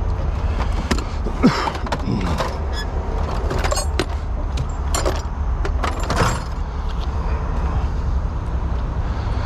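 Metal clinks and knocks, a few of them briefly ringing, over a steady low rumble; the clinks stop after about six seconds.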